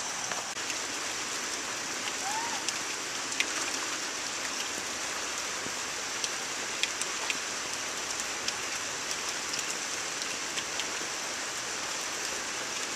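Heavy rain pouring steadily, an even hiss with scattered sharp drops and ticks.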